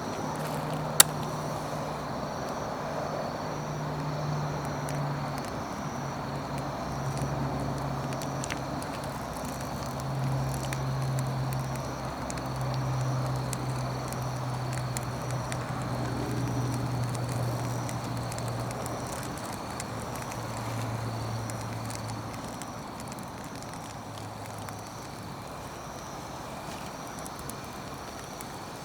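Wood campfire burning with scattered sharp crackles, one loud pop about a second in. A low engine drone in the background shifts in pitch and fades out near the end.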